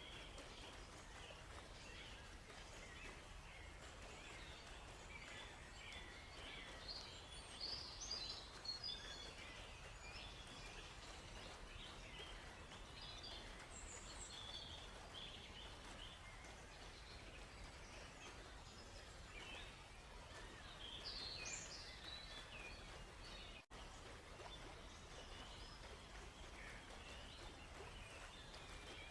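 Several songbirds chirping and twittering at irregular moments over a faint, steady background wash, the sound of a gentle river flowing. About two-thirds of the way through, the sound drops out for an instant.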